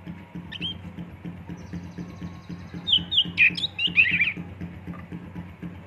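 Oriental magpie-robin (kacer) singing: a short note near the start, a high thin trill, then a quick run of loud whistled notes about three to four seconds in. A steady pulsing low sound runs underneath.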